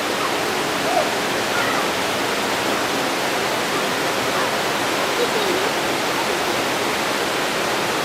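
Steady rush of the White River flowing over rocks, an even noise with no breaks.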